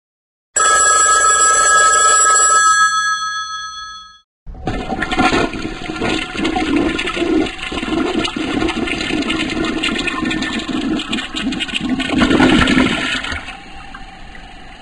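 Two sound effects in a row. First comes a ringing bell-like tone of several steady pitches that fades out over about three and a half seconds. Then, after a brief gap, comes a long rush of water lasting about ten seconds, which dies away near the end.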